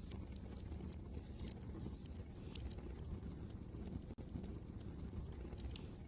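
Wood fire crackling with sharp, irregular pops several times a second, over a steady low rumble of wind.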